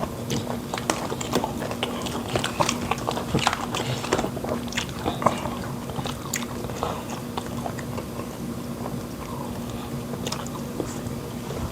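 Close-miked chewing and wet mouth smacking as people eat soft fufu with pepper soup, a continuous run of irregular small clicks and smacks, over a steady low hum.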